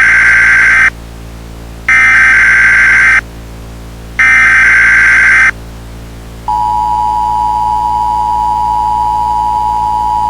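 Emergency Alert System broadcast signal: three harsh digital data bursts about a second long each, the first already underway, then about six and a half seconds in the steady two-tone attention signal starts and holds, over a low steady hum.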